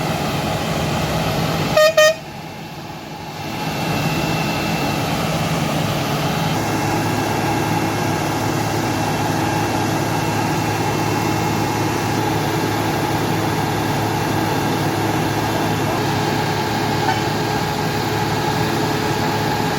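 Heavy vehicle engines running steadily, with a short, loud double horn honk about two seconds in.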